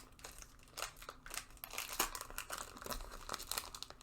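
Foil trading-card pack wrapper being crinkled and torn open by hand, with irregular crackles and rustles.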